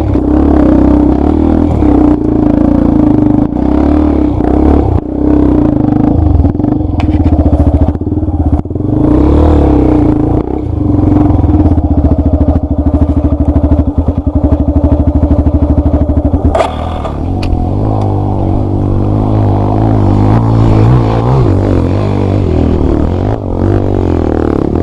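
Dirt bike engine running hard on a trail, holding a steady high note for much of the time, with clatter and scraping from the bike. About two-thirds of the way in there is a sharp knock, and the engine drops to a lower, uneven note.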